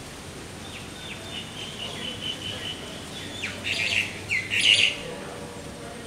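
A bird calling: a run of short, high, repeated notes, about three or four a second, starting about a second in, then a louder cluster of calls for about a second and a half near the end.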